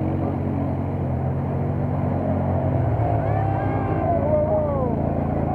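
Off-road quad bike (ATV) engines running steadily, with a higher wavering, gliding tone over them about three to five seconds in.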